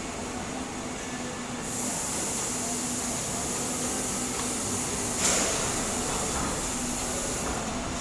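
Stick-welding arc from an E7018 electrode (SMAW) hissing and crackling steadily, getting brighter about two seconds in, with one sharp crack about five seconds in.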